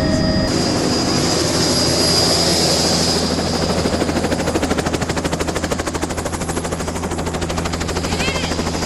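Helicopter running close by: a steady low drone with a rapid, even chop from the rotor blades.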